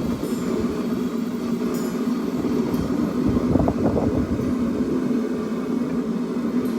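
A forge running with a steady drone, and a brief louder rustle of activity about halfway through.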